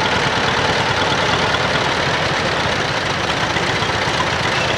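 Tractor engine idling steadily, with a rapid, even low pulse.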